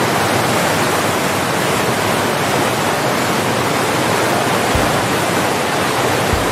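Loud, steady rushing of water: a continuous, even wash of noise with no breaks.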